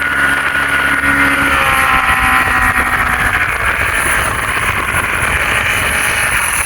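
Fishing boat's motor running under way, its pitch falling gradually between about one and a half and three and a half seconds in.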